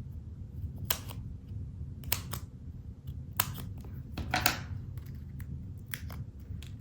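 Five or so short, crisp snips and crackles of paper crafting, about a second apart and the one near the middle longer, as tiny adhesive foam-tape squares are peeled and stuck onto paper cutouts. A steady low hum runs underneath.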